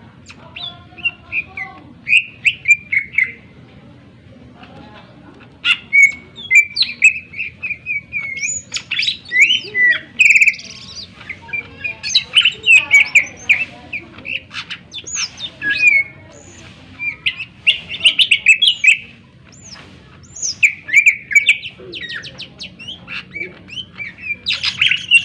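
Green leafbird (cucak ijo) singing a varied song of rapid chirps, whistles and sweeping notes, in bursts broken by short pauses.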